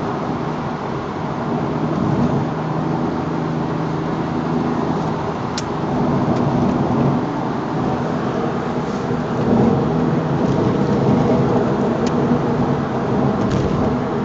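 Twin-turbo Porsche 911 GT3 engine running under way, heard from inside the cabin with heavy road and wind rumble, its revs holding fairly steady. A few faint ticks are heard over it.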